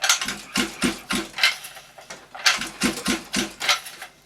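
Recoil pull-starter of a 50cc two-stroke mini dirt bike engine pulled twice, each pull turning the engine over in a quick run of about five strokes, about three a second. The engine does not catch.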